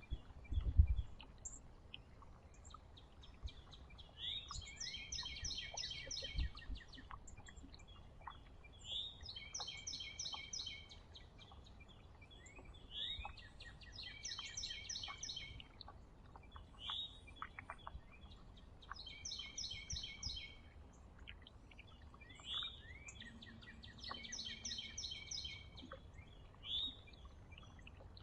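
A songbird sings the same song over and over, about every five seconds: a short slurred note, then a fast, even trill lasting a second or so. A brief low thump sounds right at the start.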